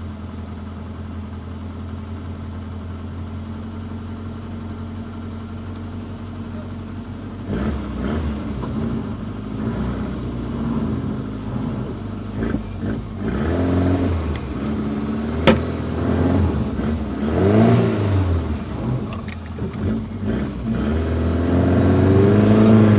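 Suzuki Jimny engine idling steadily, then revving up and down again and again from about a third of the way in. There is a single sharp click about two-thirds of the way through.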